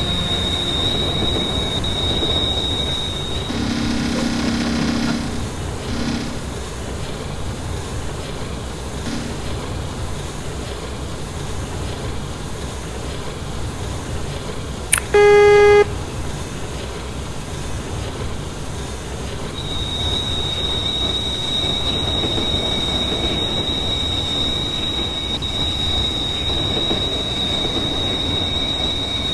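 Train running on the line with a steady high-pitched wheel squeal at the start and again through the last third. A short low horn-like tone sounds about four seconds in, and a loud short horn blast comes about halfway through.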